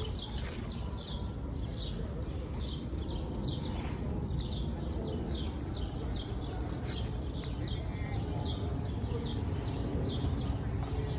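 A small bird chirping over and over, short high falling chirps about two a second, over a steady low background rumble.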